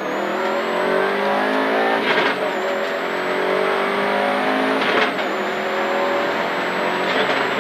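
Rally car engine heard from inside the cabin, accelerating flat out toward the flying finish: its note climbs steadily, drops with an upshift about two seconds in, climbs again and drops with a second upshift about five seconds in.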